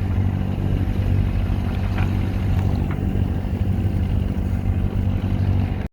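A sailboat's inboard engine running steadily under way, a low even drone, with wind and water noise over it.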